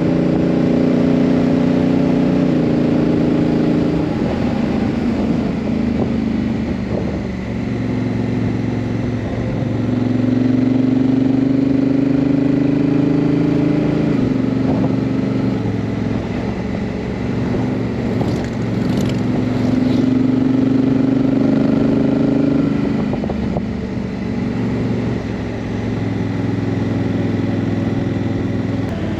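Honda CRF1000L Africa Twin's parallel-twin engine riding up through the gears: its pitch climbs steadily and then drops in a step at each shift of the dual-clutch transmission, several times over.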